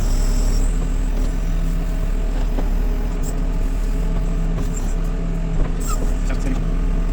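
JCB 3CX backhoe loader's diesel engine running steadily at idle, with a single light knock about five and a half seconds in.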